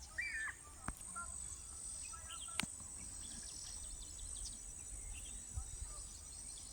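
Birds calling outdoors: a short warbling call near the start, then scattered quick chirps, over a steady high insect drone. Two sharp clicks sound, about one second and two and a half seconds in.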